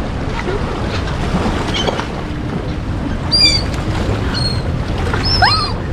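Steady wind rumble on the microphone, with a few short, high-pitched seagull calls in the second half.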